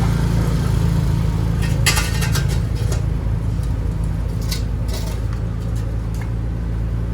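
Ariens 624E two-stage snowblower's engine running steadily, with a few sharp clicks and rattles around two and five seconds in.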